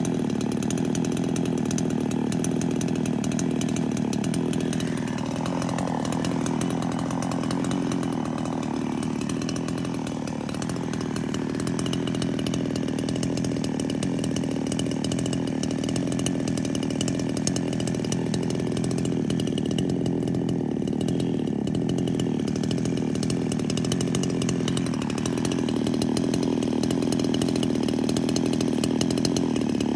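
Chainsaw running steadily, its note wavering for a few seconds about five seconds in.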